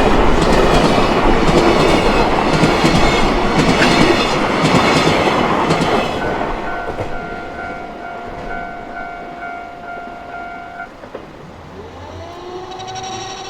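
A train passing over a level crossing, its wheels clattering loudly over the rail joints for about six seconds before fading. As it goes away, the Japanese crossing warning bell rings on in a steady repeating pattern, and near the end a rising tone joins it.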